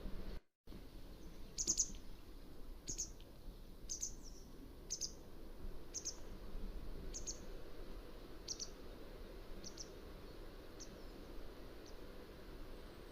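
Mountain wagtail calling: a series of short, high, sharp notes about once a second, growing fainter over the last few seconds, over a steady low hiss. A brief dropout just after the start.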